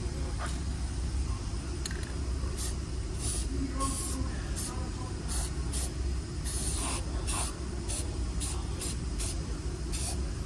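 Aerosol spray can being sprayed onto rusty car body metal in a run of short hissing bursts, about two a second, beginning a couple of seconds in, over a steady low hum.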